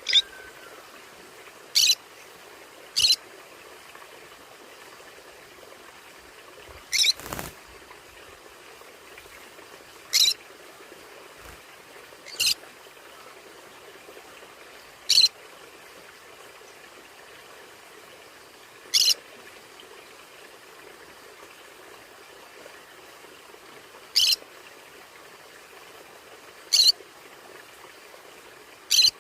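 Conures giving short, high-pitched squawks, about eleven single calls spaced irregularly one to five seconds apart, over a steady faint background hiss.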